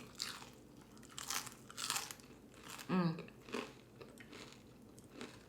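Close-miked chewing of crunchy food, with irregular crisp crunches as the mouthful is bitten and chewed, and a short hummed "mm" about three seconds in.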